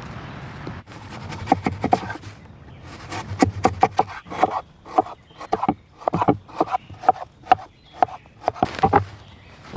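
Knife chopping on a wooden cutting board: a run of sharp knocks, two or three a second, starting about a second in after a steady hiss.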